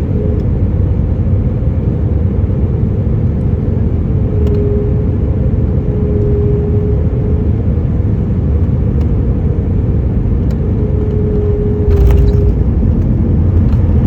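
Boeing 737 on the ground after landing: a steady low rumble from the jet engines and airframe, with a faint whine that comes and goes. The rumble grows louder about twelve seconds in.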